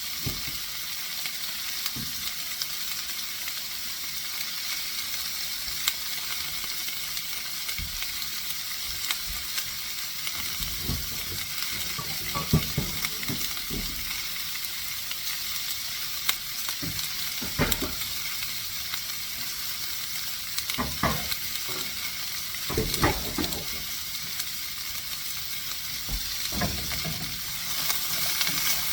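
Chicken breasts sizzling steadily in hot oil in a pan on medium-high heat, with a few short knocks scattered through; the sizzle grows louder near the end.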